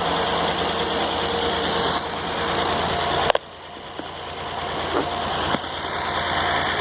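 Sawmill's engine idling steadily, spinning a 49-inch circular saw blade on a test run. About halfway through there is a sharp click, after which the sound drops sharply and slowly builds back up.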